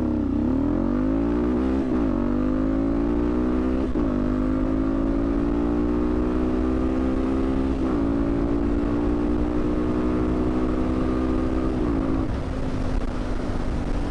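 Single-cylinder 250 cc four-stroke engine of a TBR7 dual-sport motorcycle fitted with a performance camshaft, pulling hard at full throttle through the gears. The pitch climbs in each gear and drops at four upshifts, about 2, 4, 8 and 12 seconds in. It stumbles briefly on the launch, a lean bog from opening the throttle of a carburetor that has no accelerator pump.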